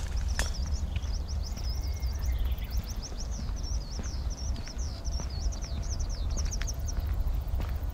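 A songbird singing a long, rapid string of short chirping notes that swoop up and down, stopping shortly before the end, over a steady low rumble.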